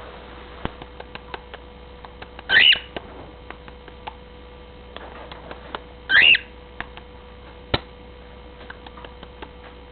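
Pet bird giving two short, loud calls about two and a half and six seconds in, with scattered light taps and clicks from it knocking its toy about.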